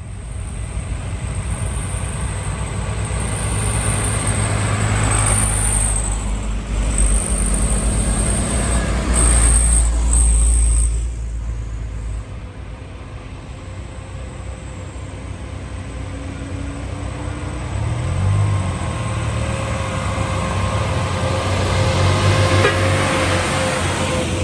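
Heavy diesel trucks running under load as they pass: a deep engine rumble builds to its loudest about ten seconds in and falls away, then a second heavy vehicle's engine builds up toward the end.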